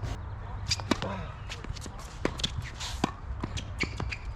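A tennis ball bouncing and tennis shoes scuffing on a hard court, a scatter of short, sharp knocks several times a second.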